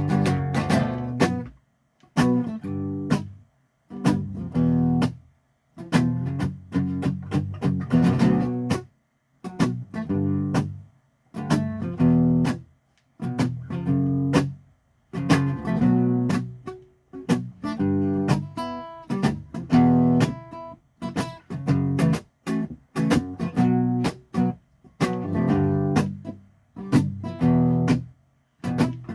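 Acoustic guitar strumming chords in an instrumental break, the strums stopping short again and again with brief silent gaps between them.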